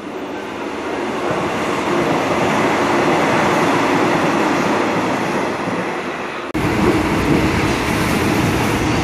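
Passenger train running past a station platform, its noise growing louder over the first two seconds and then holding steady. After a sudden cut about six and a half seconds in, the steady running noise of a train heard from inside a passenger carriage.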